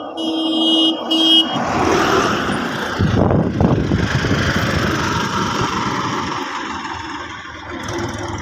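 A tractor engine being started: a steady electronic tone, briefly broken, for about the first second and a half, then the diesel engine turns over and keeps running loudly.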